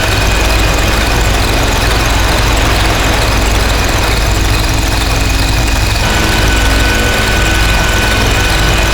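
Harsh noise drone from synthesizers run through distortion pedals: a dense, loud wall of distorted noise over a heavy low rumble, with steady high whistling tones on top. One of the high tones drops out and comes back about six seconds in.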